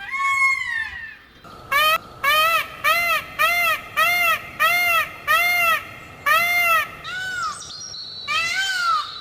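Peacock calling: a falling call at the start, then a run of about eight short, loud calls that each rise and fall in pitch, at about two a second, followed by two more after a short gap.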